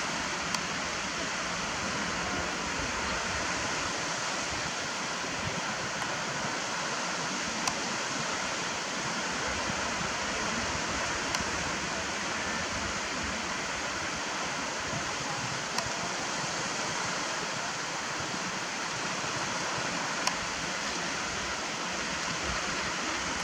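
Steady, even rushing noise with no rise and fall, broken by about five faint, sharp clicks.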